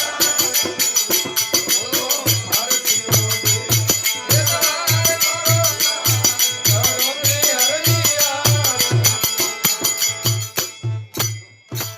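Devotional aarti music: fast, even jingling percussion over a steady drum beat, with a wavering melody line. The music breaks off near the end, leaving a couple of last strikes.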